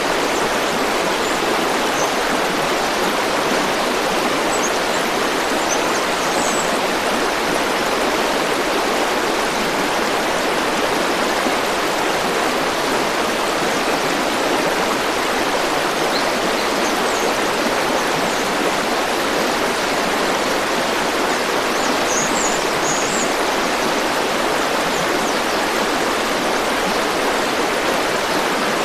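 River water flowing steadily in a continuous, even rush, with a few faint high chirps now and then.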